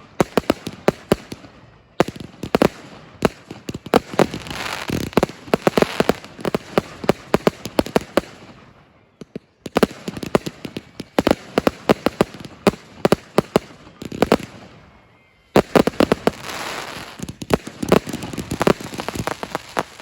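Fireworks display: rapid volleys of sharp bangs from aerial shells with crackling between them, breaking off briefly about nine seconds in and again about fifteen seconds in before starting up again.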